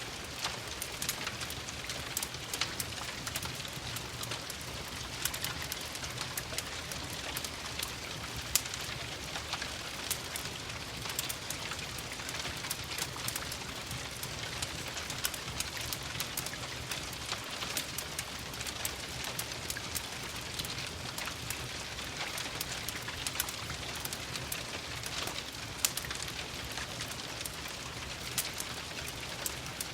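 Steady rain patter mixed with a crackling wood fire: a constant hiss with many small crackles, and two louder pops about eight seconds in and near the end.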